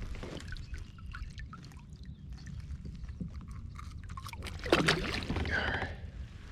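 Water splashing and trickling against a kayak as a caught northern pike is handled and let go, louder for about a second near the end.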